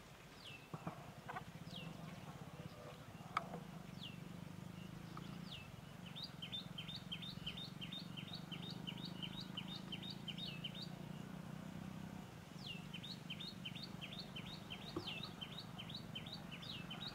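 A bird calling with short, high notes that slide down in pitch: a few spaced calls, then two fast runs of about three notes a second. A low steady hum lies underneath and fades about two-thirds of the way through.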